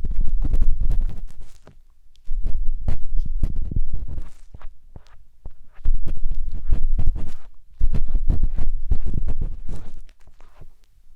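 Close, scratchy ear-cleaning scraping inside the silicone ear of a 3Dio binaural microphone, heavy and rumbly, in four bursts about two seconds long with brief pauses between them.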